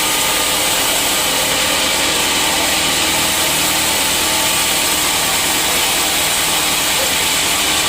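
Sawmill saw running steadily and loudly, motor and blade noise without a break, as teak stumps are sawn.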